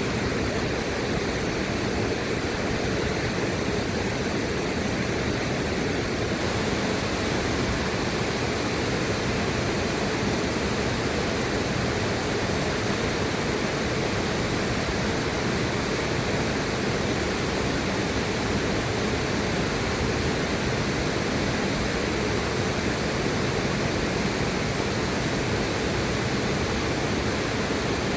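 River water rushing steadily, an even unbroken hiss and rumble with no changes in level.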